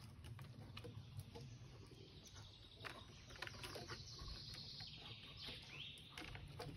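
Faint birdsong, with a few short rising and falling calls, over light scattered clicks.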